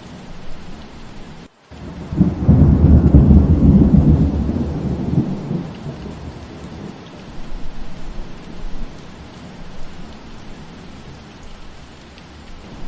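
Steady rain falling, with a low roll of thunder starting about two seconds in, loudest for a few seconds and then dying away. Just before the thunder the sound cuts out for an instant.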